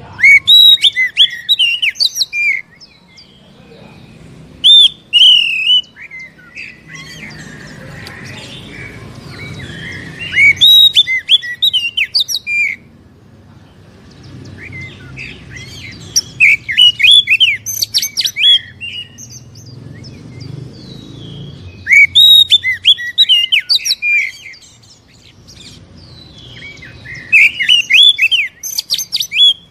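Oriental magpie-robin (kacer) singing loud phrases of rapid, varied whistles and harsh notes, six bursts a few seconds apart, with a faint low hum between them. This is a lure song used to provoke caged kacer into singing.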